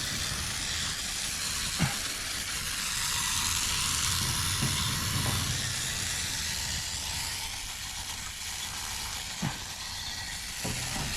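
Water from a garden hose spraying steadily onto an HVAC evaporator coil, a continuous hiss, with a few light knocks.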